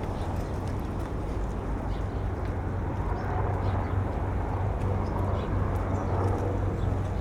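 Outdoor city ambience: a steady low engine hum under a general wash of noise, which grows a little louder about three seconds in.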